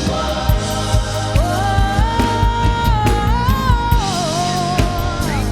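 Gospel worship song: a band with drums and bass plays while a singer holds one long, wavering note that slides up, holds, and falls back down, from about one and a half seconds in until near the end.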